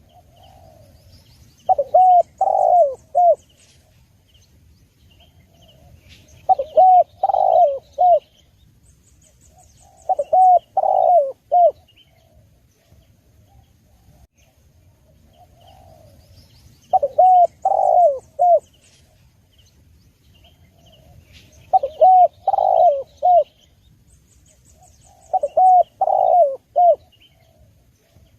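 Spotted dove (tekukur) cooing: six phrases of several short rounded coos each, a few seconds apart, with faint high chirping from other birds between them.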